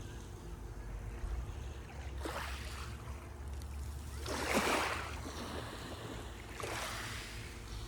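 Sea waves washing onto the shore, three surges a couple of seconds apart with the middle one loudest, over a steady low rumble.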